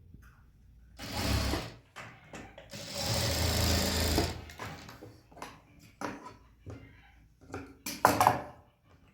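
Sewing machine running in short bursts: a brief run about a second in and a longer run of over a second about three seconds in, with scattered clicks between and another short burst near the end.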